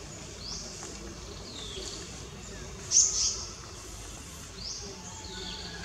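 High-pitched bird calls repeating about every second, each a short rising-then-falling note, with one sharper, louder call about three seconds in, over a faint outdoor background.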